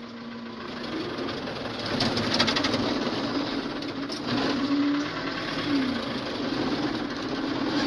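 Engine of the vehicle towing a demolition derby truck on a short chain, running under load. Its pitch rises and falls a few times under a steady rough noise.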